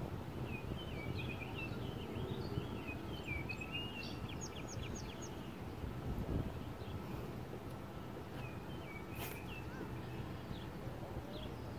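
Small birds chirping and calling in short, busy phrases over a steady outdoor rumble of wind, with a quick run of ticks about five seconds in and a single sharp click a little after nine seconds.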